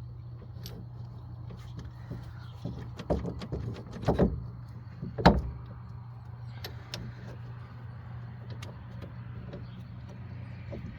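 Metal clinks and knocks as a new ABS wheel hub is handled and seated on the car's front steering knuckle, several in a row with the loudest about five seconds in, then stopping. A steady low hum runs underneath.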